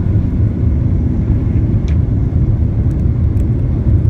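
Airliner at takeoff power: a steady, loud low rumble of the jet engines.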